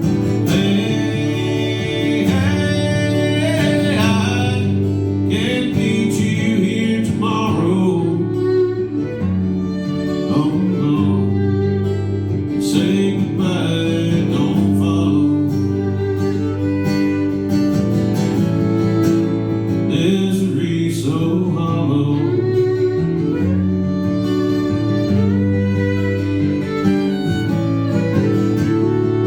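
Live cover song: a singer with acoustic guitar accompaniment, played as a steady strummed and picked country-style song.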